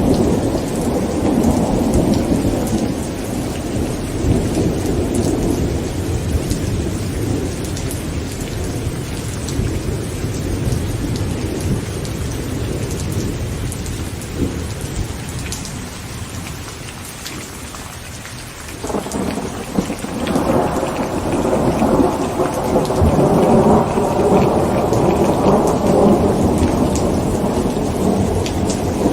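Heavy rain drumming steadily on a tent, with rolling thunder. A long rumble fades out about two-thirds of the way through, then a new thunderclap breaks in sharply and rumbles loudly to the end.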